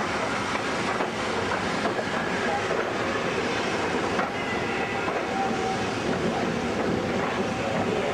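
Train running along the line: a steady rumble and rattle of wheels on rails, with a few faint clicks and a thin squeal now and then.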